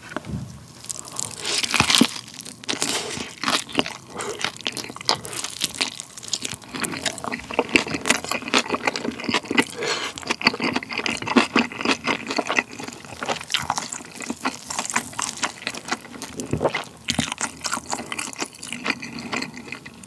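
Close-miked chewing of a bite of sauce-glazed roasted chicken leg with kimchi: a stream of wet, sticky mouth sounds mixed with crisp crunches, with a loud bite about two seconds in.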